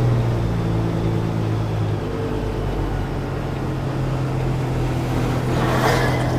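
Semi truck's diesel engine running steadily at low revs, with a short rush of noise near the end.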